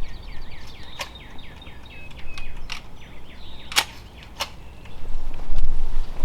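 A songbird singing a quick run of short down-slurred notes, broken by a few sharp clicks. A loud low rumble comes in near the end.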